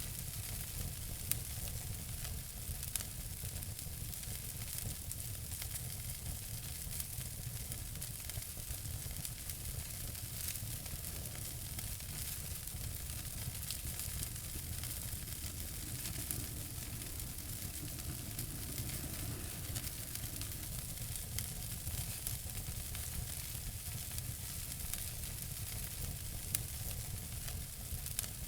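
Wood fire crackling in a fireplace: a steady hiss full of small ticks and pops, with a few louder snaps, over a low rumble.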